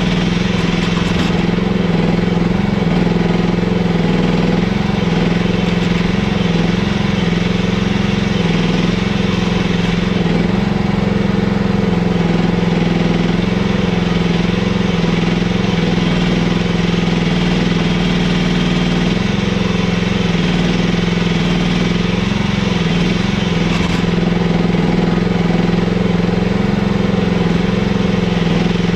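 Mini excavator engine running steadily at an even speed.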